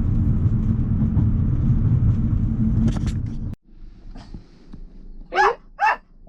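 Car running, a steady low rumble inside the cabin, cutting off suddenly about three and a half seconds in as the engine is switched off. A dog then barks twice near the end.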